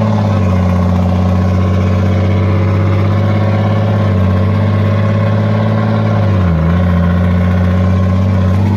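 Naturally aspirated 14-liter Cummins inline-six diesel of an M923 5-ton military truck, pulling steadily while the truck drives. Its note dips briefly and recovers about six and a half seconds in.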